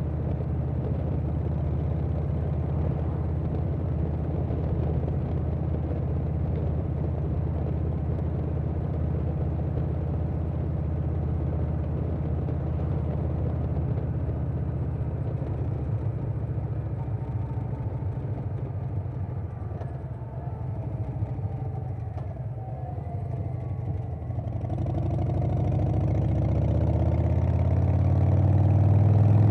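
2020 Harley-Davidson Softail Standard's Milwaukee-Eight V-twin through a Vance & Hines Big Radius 2-into-2 exhaust, running steadily at cruise. It eases off about two-thirds of the way through, then climbs in pitch and loudness as the bike accelerates near the end.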